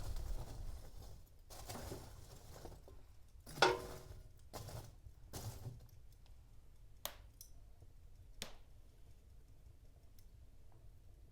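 Wood fire in a fireplace crackling softly. A low rumble fades away over the first second or two, then scattered pops follow: the loudest about three and a half seconds in, and two sharp snaps a few seconds later.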